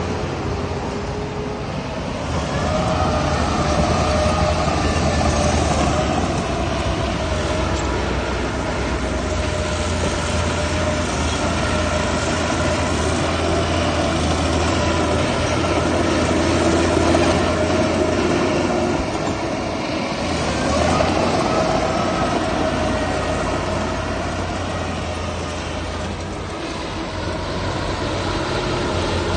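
Heavy diesel earthmoving machinery running continuously: a steady low engine drone with wavering whining tones above it. The sound swells and eases as the machine works.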